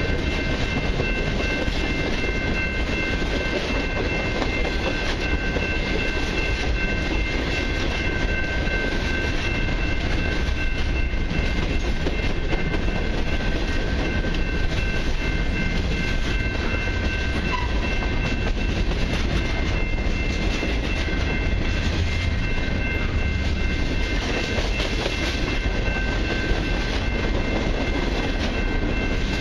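Freight cars (tank cars and covered hoppers) of a long freight train rolling past close by, a steady loud rumble of wheels on the rails. A steady high-pitched whine in several tones runs through it.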